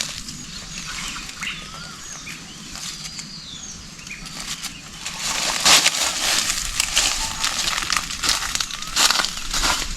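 Irregular rustling and crackling handling noises, quieter at first and busier in the second half, with small birds chirping faintly in the background.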